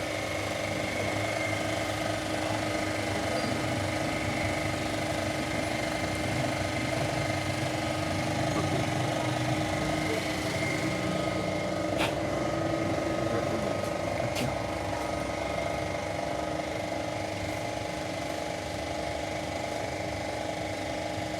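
A machine with a motor running steadily with a fast rattle, with two sharp clicks a couple of seconds apart about halfway through.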